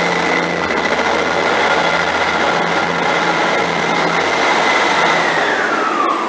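Northern diesel multiple unit running past along the platform: a steady rumble with a high whine over it, the whine dropping in pitch near the end as the train draws away.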